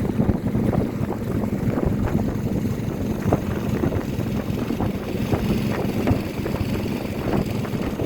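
Boat engine running steadily, with a constant low hum and wind buffeting the microphone as the boat moves along the river.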